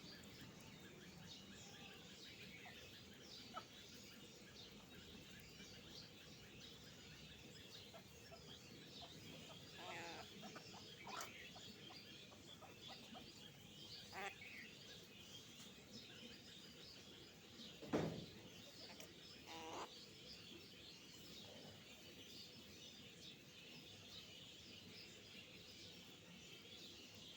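Faint, steady chirping of small birds, with a few short clucks from a rooster spread through the middle and one louder sharp knock about eighteen seconds in.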